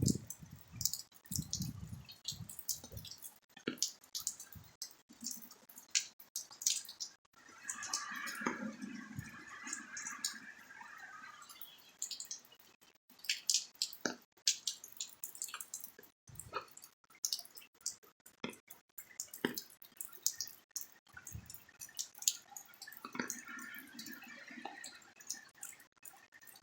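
Rainwater dripping in a downpour: irregular, closely spaced drops striking, with two stretches of denser splashing partway through.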